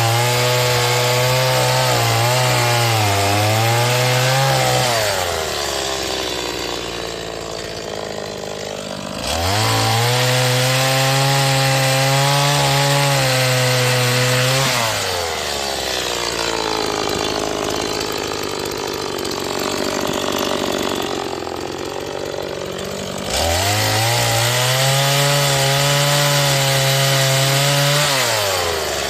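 Stihl MS 180 two-stroke chainsaw, new and being broken in, cutting firewood. Its engine runs at high speed between cuts, then drops in pitch and turns rougher as the chain bites into the wood, twice, with a third cut starting near the end.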